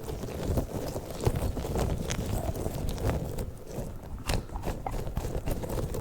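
Squishy rubber balls handled and squeezed right up against the microphone: a dense, irregular run of soft taps, clicks and rubbing noises.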